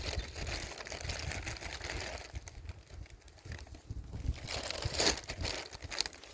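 Close, irregular rustling and crinkling of things being handled near the microphone, with wind rumbling on the microphone.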